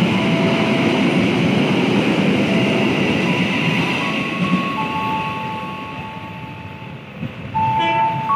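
Carriages of a long-distance passenger train passing through the station at speed: a steady rumble of wheels on rails, with thin steady tones over it, that fades as the last cars go by about five to seven seconds in. Just before the end a clear, louder tone starts.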